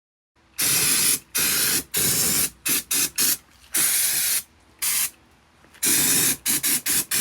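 Aerosol spray can being sprayed in a series of hissing bursts, some about half a second long and others quick short spurts, as a cleaner or degreaser goes onto the grimy truck cab.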